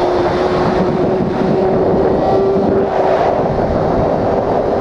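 Motorcycle riding at speed: a steady engine note that climbs slowly in pitch, under heavy wind rush on the microphone.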